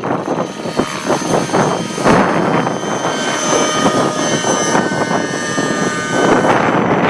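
Align T-Rex 600 Nitro RC helicopter in flight: its glow-fuel two-stroke engine and rotors give a steady high whine, mixed with gusty wind buffeting the microphone.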